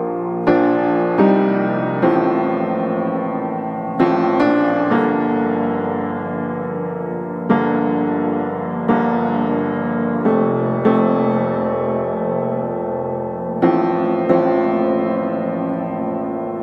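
Background piano music: slow notes and chords, each struck sharply and left to ring and fade, a new one every second or two.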